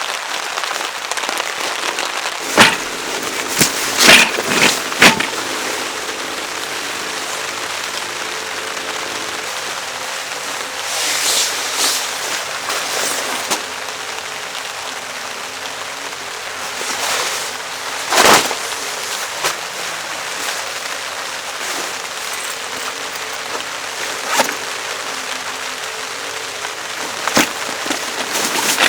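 Steady rain falling, with a few sharp, loud knocks: a cluster about three to five seconds in, then single ones later.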